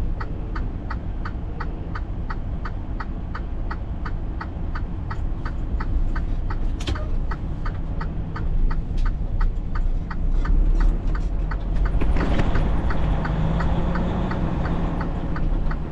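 Semi-truck engine rumbling, heard from inside the cab, with a turn signal ticking steadily at about three ticks a second. The engine grows louder about twelve seconds in.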